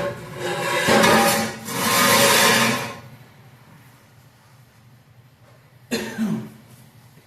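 Plasma cutter cutting through steel exhaust pipe in several short bursts of loud hissing arc for about three seconds, then stopping. About six seconds in comes a brief sharp sound with a falling pitch.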